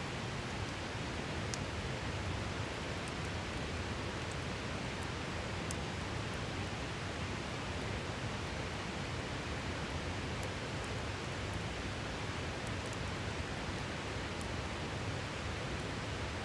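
Steady rush of a river, with a few faint sharp crackles from a wood campfire scattered through it.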